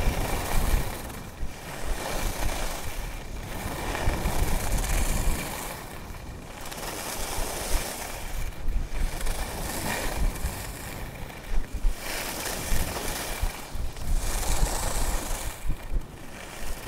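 Skis hissing over snow in rhythmic turns, swelling and fading about every second and a half or two, with wind rumbling on the microphone.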